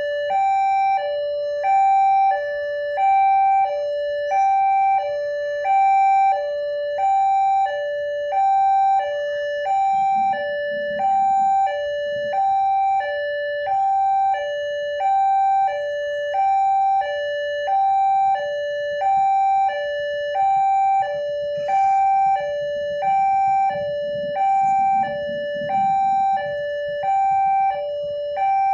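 Electronic level-crossing alarm on an Indonesian railway crossing, sounding a steady two-tone warning that alternates high and low about once a second: the signal that a train is approaching and the barrier is closed. A low rumble swells underneath twice.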